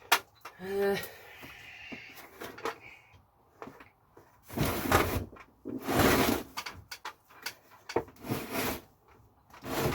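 Rummaging through clutter on a workbench in search of a small part: scattered clicks and knocks of items being moved, with a few longer scraping rustles around the middle and again near the end.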